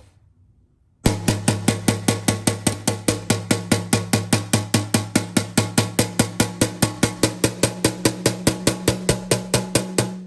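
Big metal spoon beating rapidly on a metal pan, about six strikes a second, the pan ringing on beneath the hits. It starts about a second in and stops just before the end, the ring fading out.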